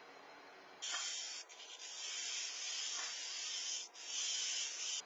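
A steady hiss of even noise with no pitch, starting about a second in and dipping briefly twice.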